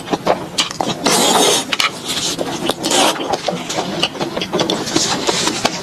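Close-miked chewing of fried enoki mushroom skewers: a dense run of irregular sharp clicks and short bursts of crunching noise.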